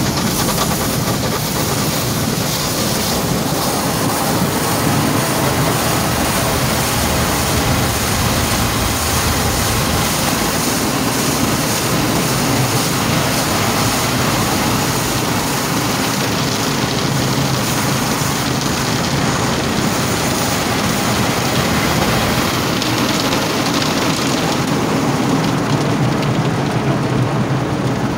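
Car wash running over the car: a steady, loud rush of spraying water and machinery.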